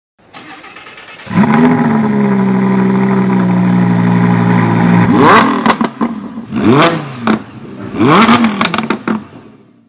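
Superbike engine held at steady high revs for about four seconds, then revved three times, each rev rising and falling in pitch.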